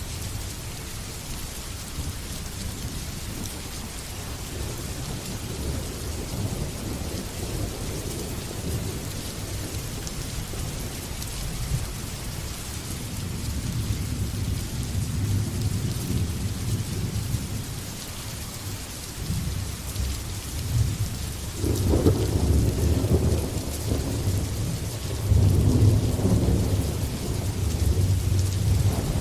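Steady heavy rain with thunder rumbling underneath. The rumble builds about halfway through, and a louder thunderclap breaks about 22 seconds in, followed by another a few seconds later.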